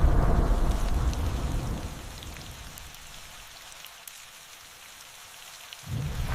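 Steady rain with a roll of thunder dying away over the first two seconds, then rain alone with small drops ticking, until a new rumble of thunder breaks in suddenly near the end.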